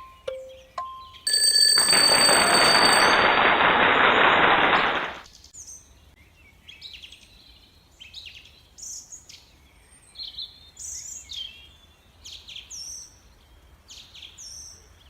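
A quick run of two-note beeps, then a loud electric-bell-like ringing for about four seconds that cuts off, followed by faint, scattered bird chirps with short falling notes.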